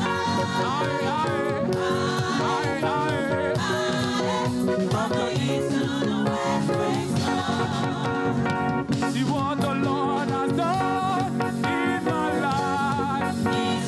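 Live gospel praise music: a church choir singing with a band, sung melody lines over a steady bass and keyboard backing.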